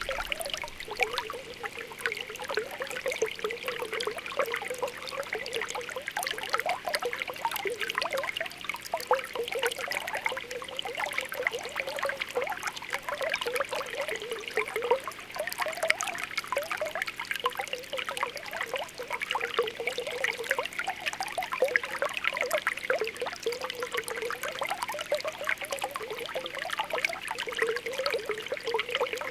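Spring water welling up from the ground in a continuous bubbling and popping: many small plops and gurgles over a steady trickle.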